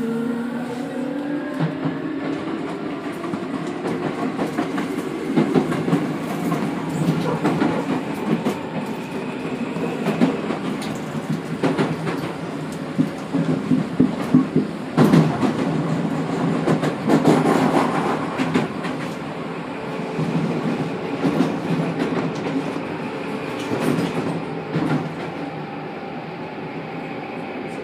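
Tokyu 9000 series electric train car running, heard from inside the car above its bogie. In the first couple of seconds the Hitachi GTO VVVF inverter and traction motors give a rising whine as the train accelerates. Then come steady wheel-and-rail running noise and the clacks of rail joints. This bogie runs free of the abnormal noise heard at the Shibuya end of the car.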